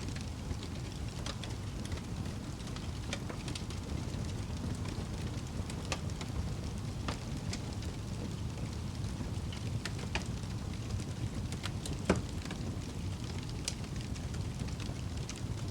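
Wood fire burning in a fireplace: a steady low rumble of flames with scattered crackles throughout, and one louder pop about twelve seconds in.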